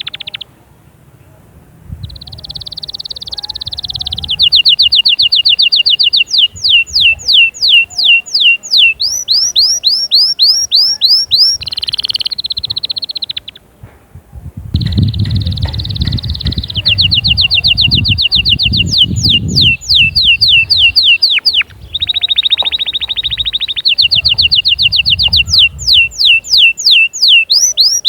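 Domestic canary singing in long rolling phrases: a buzzing trill, then a fast run of repeated notes, then a series of downward-sweeping whistles. The song breaks off briefly twice and starts again.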